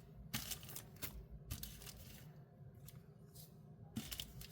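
Faint rustling of small plastic bead bags being handled, in several short bursts.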